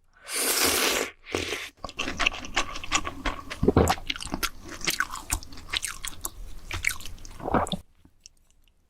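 Close-miked eating: a noisy burst lasting about a second near the start, then chewing with many crisp crunching clicks that stop about eight seconds in.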